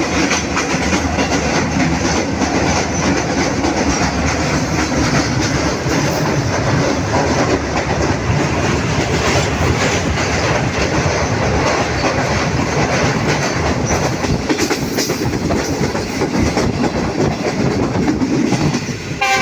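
Passenger train running, with a steady rumble and the clickety-clack of its wheels over the rail joints.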